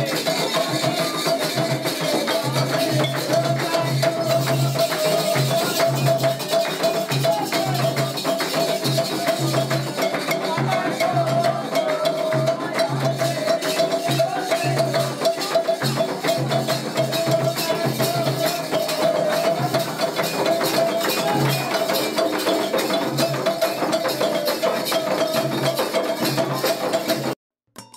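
Candomblé ceremonial music: a steady drum pulse and shaken rattles under a wavering sung chant. It cuts off suddenly near the end.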